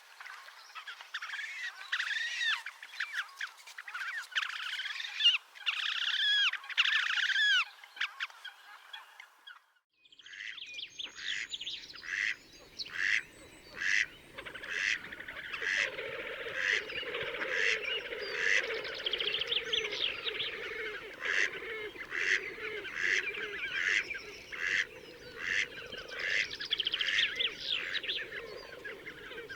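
Slavonian grebes calling: squealing notes that arch up and down. After a brief break about ten seconds in, a busier stretch follows, with sharp calls repeated about one to two a second over a lower, steady chorus.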